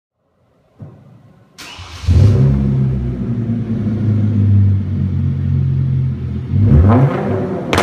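Hyundai Genesis 3.8-litre V6 with the muffler deleted and a straight pipe in its place, on stock cats and headers: the starter cranks, the engine catches about two seconds in with a flare, then idles with a loud, deep exhaust note. Near the end it gives a quick blip of revs and drops back.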